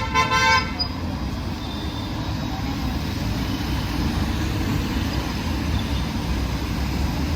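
Busy road traffic with a steady low rumble of engines and tyres, and a short vehicle horn honk right at the start.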